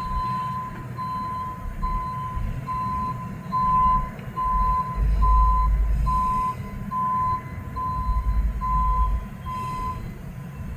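High-rail truck's backup alarm beeping steadily, about a dozen single-tone beeps a little under a second apart, as the truck reverses to set its rail wheels onto the track, with the truck's engine rumbling underneath. The beeping stops just before the end.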